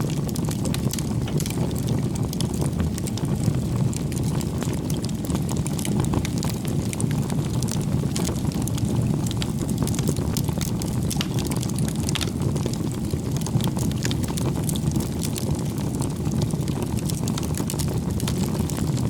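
Campfire burning steadily: a low, even rush of flames with many small, irregular crackles and pops from the burning wood.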